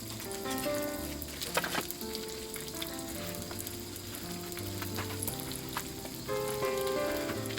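Food sizzling and crackling as it fries in a pan, under background music of slow melodic notes.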